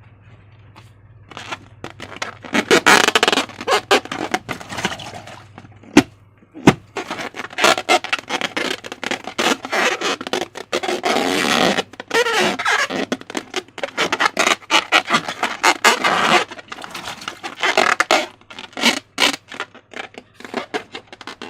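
Slime being worked by hand: irregular sticky squishing and scraping in uneven bursts, with two sharp clicks about six seconds in.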